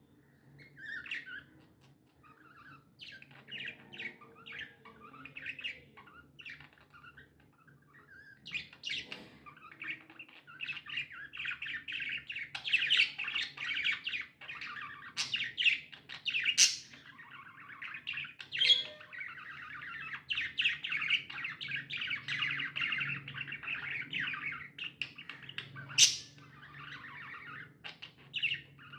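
Pet budgerigars chirping and chattering: scattered chirps at first, building after a few seconds into dense continuous chatter, with a couple of sharp, louder squawks.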